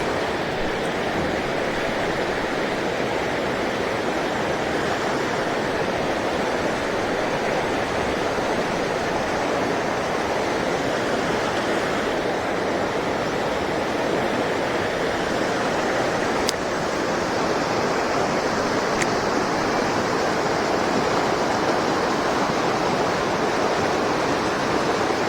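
Rain-swollen mountain stream rushing steadily, with two faint ticks in the second half.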